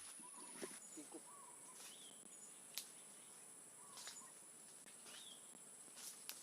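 Faint natural ambience: a steady high-pitched insect drone, with short bird chirps every second or two and a few light clicks.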